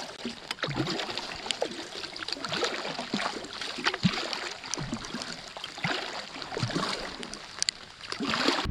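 Rain falling on the lake surface: a steady hiss dotted with many small, irregular drop ticks.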